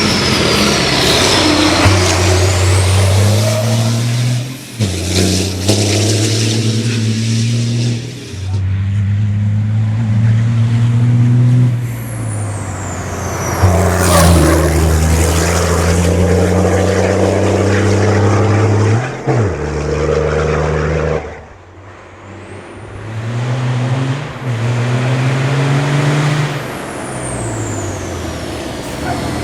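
Racing truck's engine, rated at about 1500 hp, pulling hard through several gear changes: the pitch drops at each shift and then climbs again. About three quarters of the way through the power is cut sharply for a couple of seconds before the engine builds up again.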